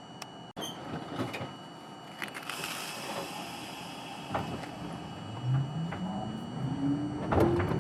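R42 New York subway car starting to pull away: a short hiss of air and a few clicks and knocks, then the traction motor whine rising steadily in pitch as the train accelerates.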